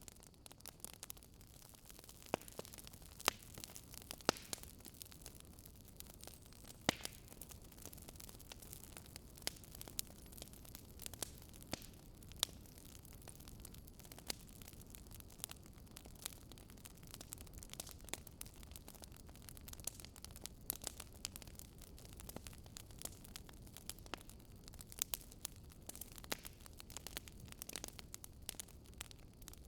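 Wood fire crackling in a fireplace: faint, irregular pops and snaps, several a second, with a few louder snaps, over a steady low hiss.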